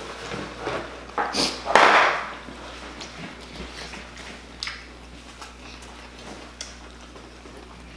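Close-up chewing of a big mouthful of seafood boil, with soft wet mouth clicks, and a short louder rustling burst about two seconds in.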